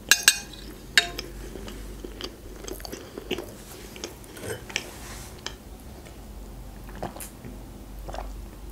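Close-miked chewing of a mouthful of food with the mouth closed, with scattered wet mouth clicks; the sharpest come about a fifth of a second and a second in.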